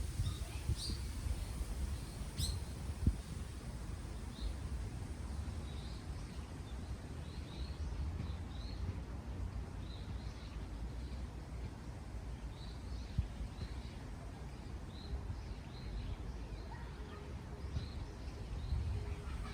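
Small songbirds chirping in short, high notes every second or so over a steady low rumble of wind on the microphone.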